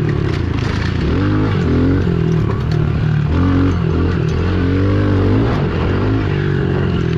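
Pit bike engines racing, their pitch climbing and dropping again and again as the throttle is opened and eased, over a steadier engine note underneath.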